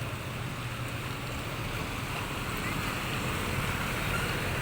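Steady wash of water and wind noise with a low rumble underneath, as from a boat moving through high-tide floodwater.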